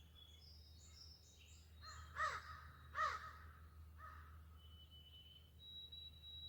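A crow cawing twice, two harsh calls under a second apart, followed by a fainter third call. Small birds chirp faintly before the caws.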